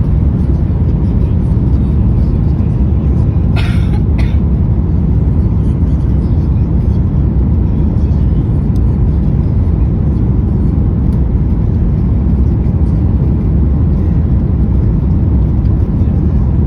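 Boeing 737 MAX 8 cabin noise on approach: a loud, steady low rumble of engines and airflow heard from inside the cabin. About four seconds in come two short bursts of hiss.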